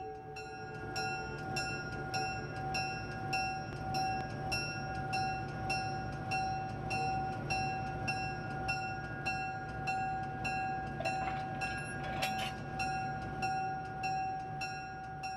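Railway ambience: a short metallic ding repeating evenly about twice a second over a held steady tone and a low pulsing rumble.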